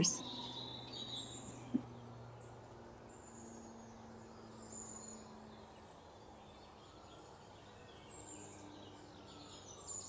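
Faint bird chirps, short and high, scattered through a quiet room tone with a low steady hum. One sharp tick comes a little under two seconds in.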